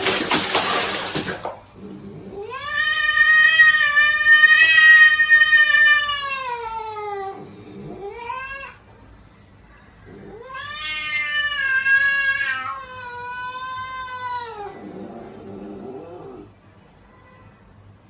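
A cat yowling: two long drawn-out yowls several seconds each, level in pitch and then falling at the end, with a short rising cry between them. A loud noisy rush fills the first second or so.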